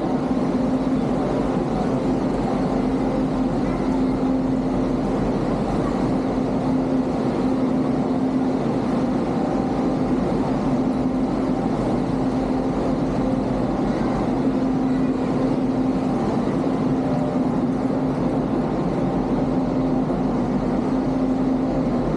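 A train's engine running steadily: an even, unbroken drone with a constant low hum.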